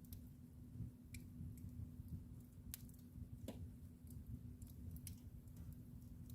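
Wood fire in a fireplace crackling softly: scattered small ticks and pops, one stronger pop about three and a half seconds in, over a low rumble and a faint steady hum.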